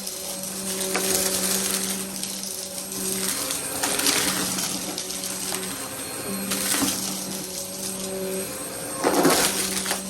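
Vacuum cleaner running and pushed quickly back and forth over the floor. Its motor hum comes and goes every second or two, with a swish of airflow on each stroke.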